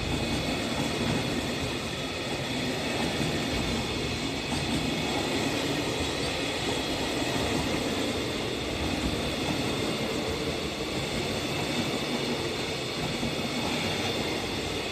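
Container flat wagons of a long freight train rolling past at speed: a steady, continuous noise of steel wheels running on the rails, with a faint steady high ringing over it.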